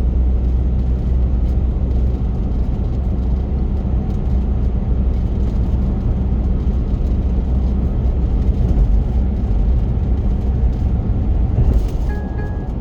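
Steady low rumble of a car driving, tyre and engine noise heard from inside the cabin, with a brief louder rush near the end.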